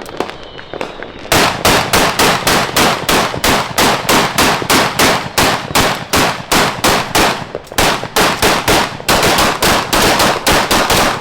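Fireworks going off in a rapid, regular run of loud bangs, about three a second, starting about a second in and coming faster near the end. Fainter crackling comes before the run.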